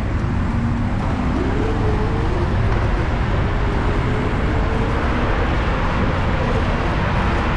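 Steady road traffic noise with wind rushing over the microphone of a camera on a moving bicycle; a motor vehicle's engine hum rises in pitch about a second in and then holds.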